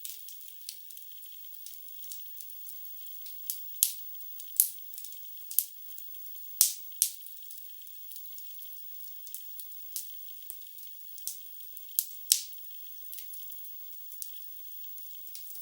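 Burning wood logs crackling in a fireplace: irregular sharp snaps and pops over a faint hiss, with the loudest pops about four, six and a half and twelve seconds in.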